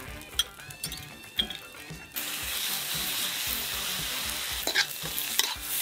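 Rice frying in a wok, a steady sizzle that starts suddenly about two seconds in, with a metal spatula clinking and scraping against the pan now and then. Background music runs under it.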